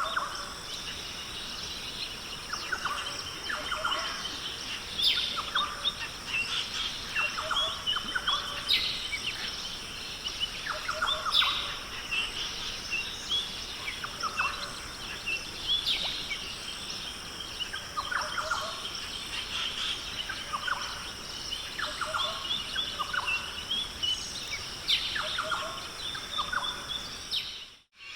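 Birds calling again and again in short phrases over a steady high-pitched hum. The sound drops out briefly near the end.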